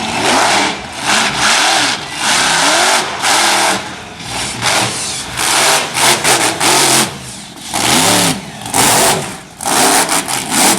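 Monster truck engine revving hard in repeated blips, its pitch rising and falling over and over with loud surges between short dips.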